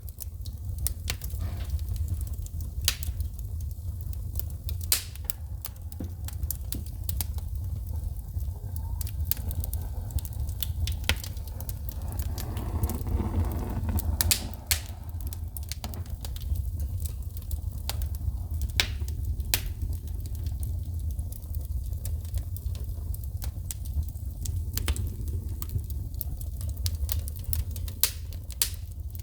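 Wood fire burning in a fireplace: irregular sharp pops and snaps of sparks shooting from the logs over a steady low rumble of the flames. There is a brief swell of softer hissing noise near the middle.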